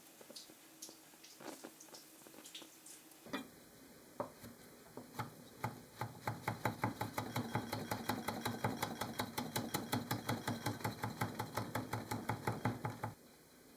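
Kitchen knife chopping on a cutting board: a few slow cuts, then quick, even chopping of about four or five strokes a second that stops abruptly near the end.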